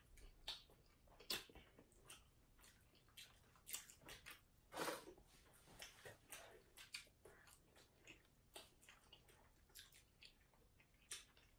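Faint chewing of chicken nuggets, with scattered soft mouth clicks and smacks at irregular moments.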